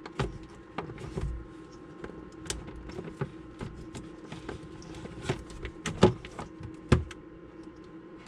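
Scattered clicks and knocks of hands working the RV water pump's plastic winterizing valve and fittings as the valve is switched over, with two sharper knocks about six and seven seconds in, over a faint steady hum.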